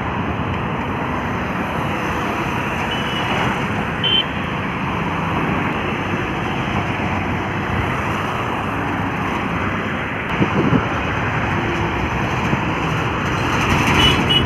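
Highway traffic with heavy trucks going by: a steady, loud rumble of engines and tyres. Brief high-pitched beeps sound about four seconds in and again near the end.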